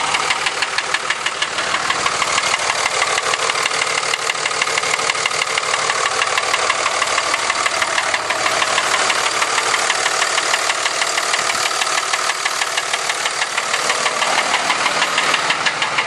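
2003 Dodge 5.9 Cummins inline-six turbo diesel running with a loud, steady, rapid knock. The knock comes from a loose piston in the number 6 cylinder with some scoring on the cylinder wall.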